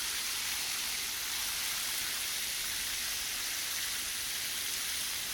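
Garden hose spray nozzle on its flat setting running steadily, a constant hiss of water spraying into a water container as it fills.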